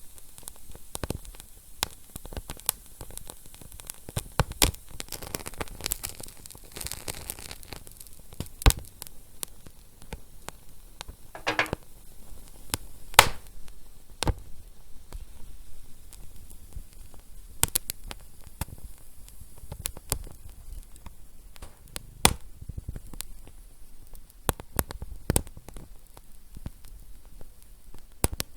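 Wood fire crackling: irregular sharp pops and snaps over a soft steady hiss, with a short hiss from the burning wood about halfway through.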